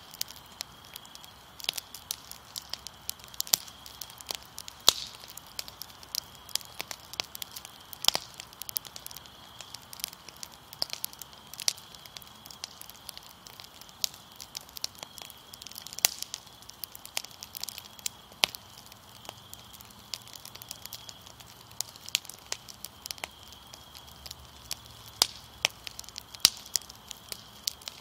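Fire crackling: irregular sharp pops and snaps, several a second, some louder than others, over a low steady hush.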